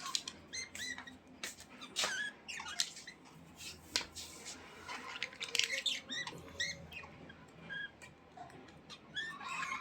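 Budgerigars chattering: a busy stream of short chirps, whistles and clicks, one after another.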